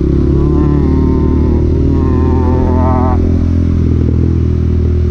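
Honda Grom 125cc single-cylinder engine running at a steady speed while riding. A wavering higher tone sounds over it twice in the first three seconds and cuts off suddenly.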